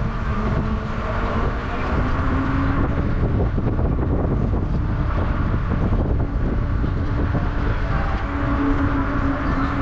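Steady road and traffic noise with a heavy low rumble of wind on the microphone, as from a moving bicycle, and a vehicle's hum rising and fading twice.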